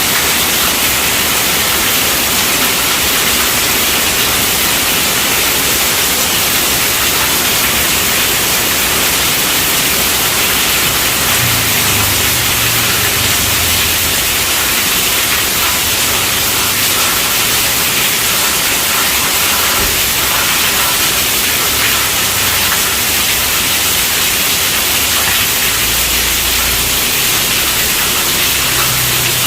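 Steady rainfall: an even, unbroken hiss, strongest in the high range, with a faint low rumble now and then underneath.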